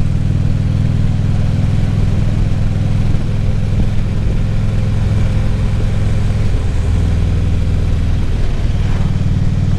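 2014 Harley-Davidson Ultra Classic Limited's V-twin engine running under way, with wind and road noise over it. The engine note shifts about six and a half seconds in and again near the end.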